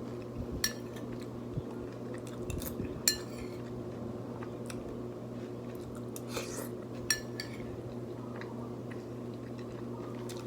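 Cutlery clinking against a plate during a meal, a handful of sharp clicks with the loudest about three seconds in, with some chewing, over a steady low hum.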